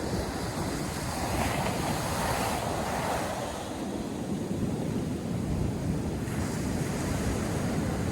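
Ocean surf breaking and washing up the beach, with a wave's wash swelling about a second or two in and fading, under a steady low rumble of wind buffeting the microphone.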